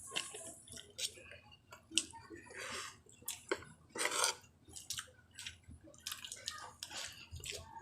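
A person eating: wet chewing and mouth smacking over soft vinegared eggplant, broken up by short, irregular sharp clicks.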